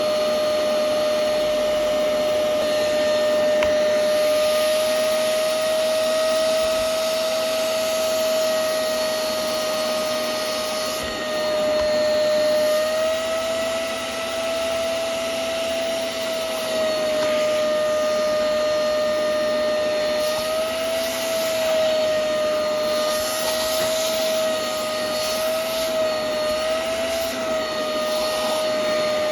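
Hoover CleanSlate Plus spot cleaner's suction motor running with a steady whine. Its pitch rises and dips slightly at times as the nozzle is pressed over couch fabric.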